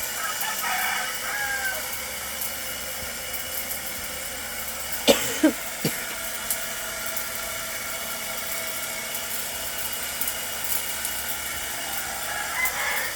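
A rooster crowing twice, once near the start and once near the end, over a steady hiss with a faint steady whine. A few sharp knocks come about five to six seconds in.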